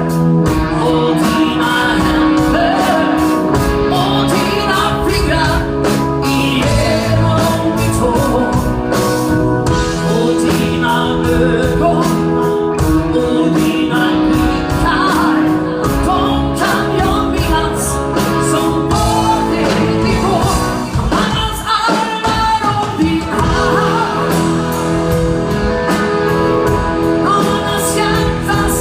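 A band playing a song with a lead vocal, over a steady drum beat.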